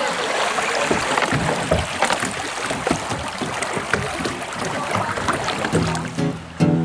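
Kayak paddling on a river: a rough, steady water wash with many small sharp splashes. Acoustic guitar music comes in near the end.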